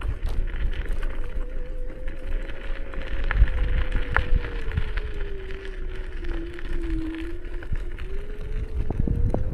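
Electric drive motor of a small electric vehicle whining as it rides along, with a single tone that sinks slowly in pitch from about four seconds in, bottoms out near seven seconds, then climbs back. Underneath is a low rumble of wind and tyres, with a few light ticks.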